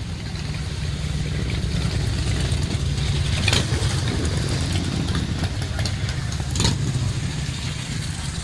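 Motorcycle engines running, a steady low hum that swells louder towards the middle, with two sharp clicks about three and a half and six and a half seconds in.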